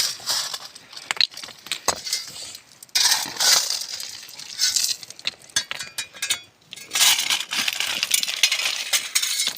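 Loose stones and gravel clinking and scraping in bursts of sharp clicks, as rocks are cleared out of an irrigation channel.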